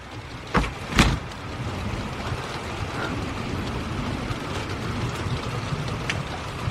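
Two sharp knocks, then a steady wash of thunderstorm rain and wind with a low rumble underneath.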